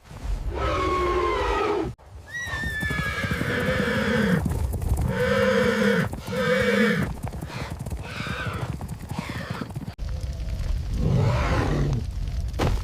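Horses whinnying and neighing, a series of about six calls, some sliding down in pitch, over a steady low rumble.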